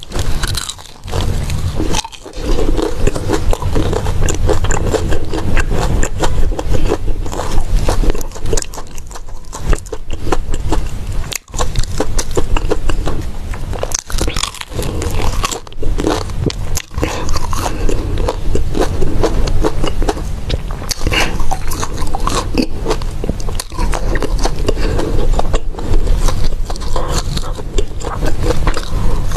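Close-miked biting and chewing of golden crumb-coated fried balls: a dense, continuous crackle of crisp crunching, with brief pauses between bites.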